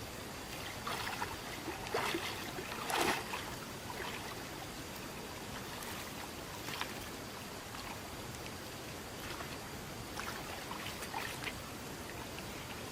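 Steady rush of running water with irregular splashes, the loudest about two and three seconds in and a few fainter ones later.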